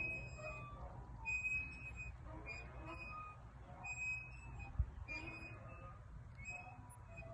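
Faint birds chirping: scattered short, high whistled notes at varying pitches over a low steady rumble.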